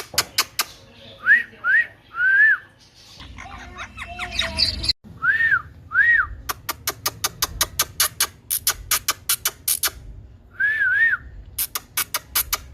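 Short whistled notes, each rising and falling, come singly or in pairs. Between them are many sharp clicks, with a fast run of clicks through the middle.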